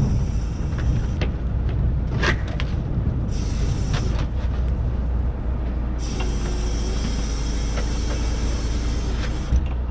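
Heavy engine running steadily, with stretches of hissing that come and go and scattered metallic clanks and knocks.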